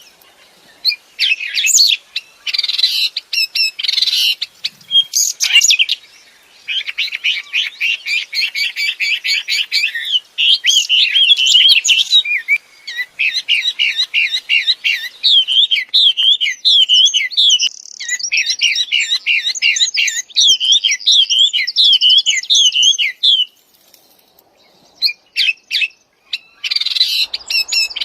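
A songbird of the kind called wambi in Indonesia singing vigorously: long runs of rapid, repeated whistled notes and fast trills, changing phrase every few seconds. It breaks off for a couple of seconds near the end, then starts again.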